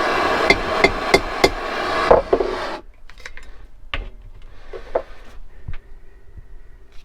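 Light hammer taps driving a tool against a bent cooling fin on a Suzuki T500 cylinder, which is being eased straight a fraction at a time while kept hot. Four quick taps come over a steady hiss from the heat source; the hiss stops about three seconds in, and single taps follow about once a second.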